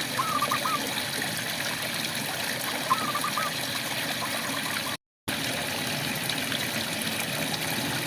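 Steady rain hiss with frogs chirping in short groups of about four quick notes, twice. The whole sound cuts out abruptly for a moment about five seconds in.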